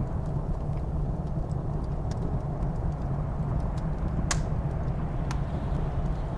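Wood fire crackling against a steady low rumble of blizzard wind: scattered small pops and one sharper crack about four seconds in.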